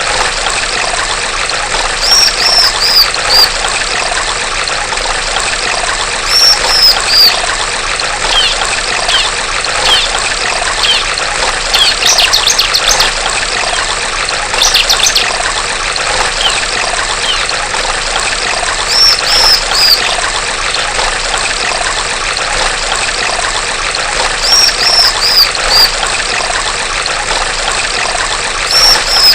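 Female bar-winged prinia (ciblek) calling over a steady trickle of running water: short phrases of three or four high, falling notes recur every few seconds, with two fast trills about halfway through.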